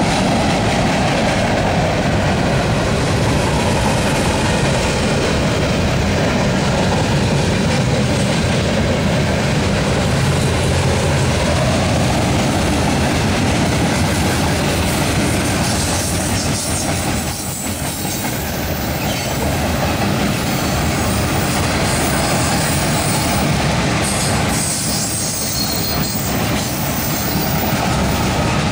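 Freight cars of a mixed manifest train (covered hoppers and tank cars) rolling past over a railroad bridge: a steady, loud rumble of steel wheels on rail, with clickety-clack and wheel squeal at times.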